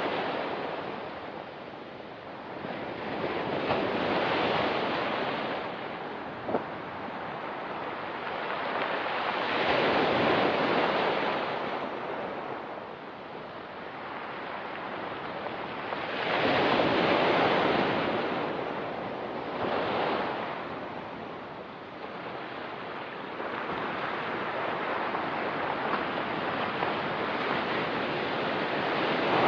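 Ocean surf washing onto a rocky pebble beach, a wave swelling and breaking every few seconds, the biggest about ten and seventeen seconds in.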